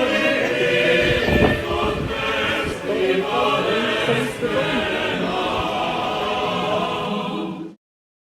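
Several voices singing together in a choir-like chant, with many held notes layered over one another. It cuts off abruptly shortly before the end.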